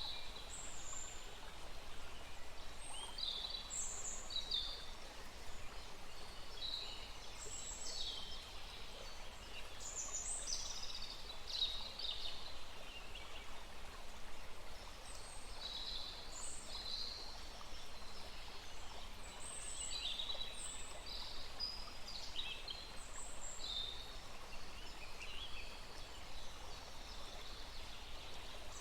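Songbirds chirping and trilling in quick, scattered short calls over the steady rush of a small forest stream.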